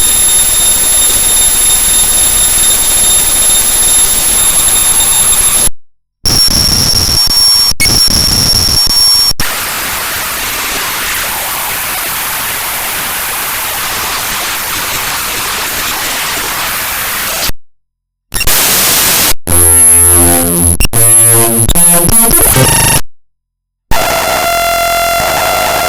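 An executable program file (Audacity.exe) played back as raw audio data: loud, harsh digital noise and static with steady high whining tones in places. It cuts abruptly to silence three times and breaks into choppy, rapidly stuttering buzzes near the end.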